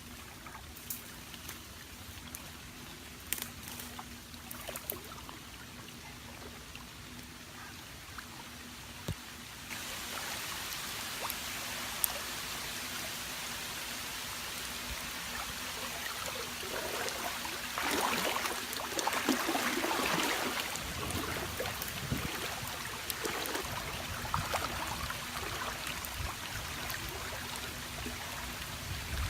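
Water trickling and splashing, with a few small clicks and knocks at first. About ten seconds in it steps up to a louder, steady rush of water, with heavier splashing for a few seconds past the middle.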